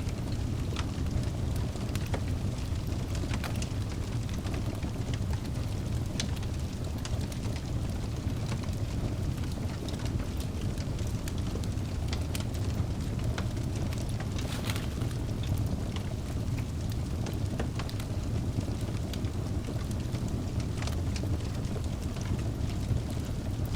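Wood fire burning in a fireplace: a steady low rumble of flames with frequent scattered crackles and pops from the logs.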